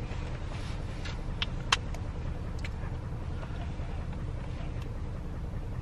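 Steady low rumble of a car heard from inside the cabin, with a couple of sharp clicks about a second and a half in.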